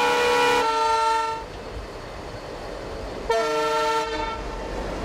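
Train horn blowing twice: the first blast cuts off under a second in, and a second blast comes about three seconds in and lasts about a second, over the low rumble of a running train.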